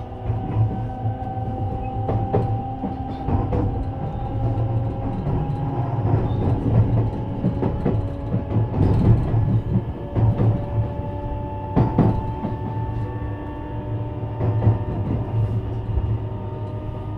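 JR West 321 series electric train running, its traction-motor whine rising slowly in pitch over a steady wheel-and-rail rumble. A few sharp clacks from the wheels over rail joints come through, the loudest about twelve seconds in.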